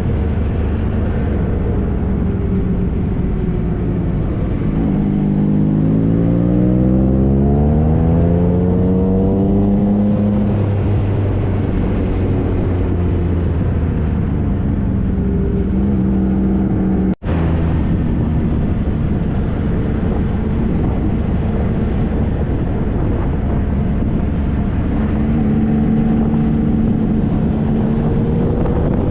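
2013 Triumph Trophy SE's 1215 cc inline three-cylinder engine running under way over steady road and wind noise. The engine note climbs as the bike accelerates about five seconds in, holds, and rises again near the end; the sound cuts out for an instant a little past halfway.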